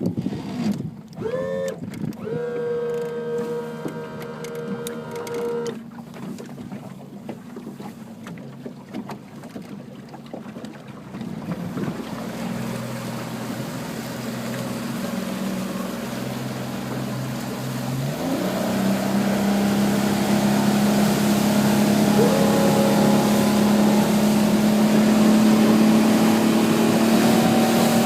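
2003 Mercury 40 hp four-stroke EFI outboard running as the boat gets under way. A higher engine tone rises and holds for a few seconds about a second and a half in. Wind and water rush builds from about 12 seconds in, and the engine note steps up about 18 seconds in and keeps climbing as the throttle opens.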